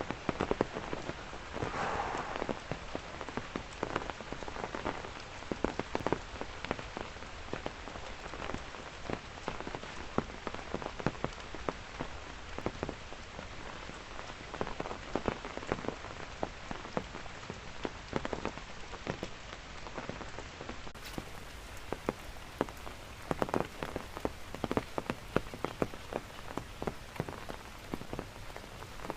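Steady rain falling, with a dense, uneven patter of individual drops striking close by.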